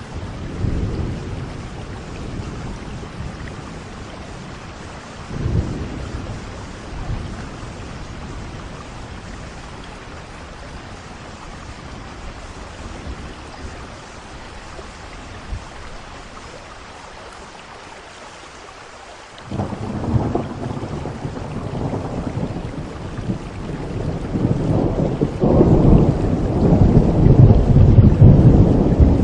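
Steady rain falling, with rolling thunder: a short rumble about five seconds in, then, after a lull, a long rumble that breaks in about two-thirds of the way through and builds to its loudest near the end.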